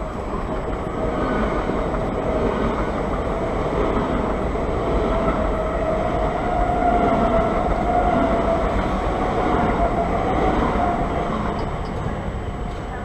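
A train running past on the tracks: its rumble and rail noise build up over the first seconds, hold, then ease away near the end, with a steady whine running through it.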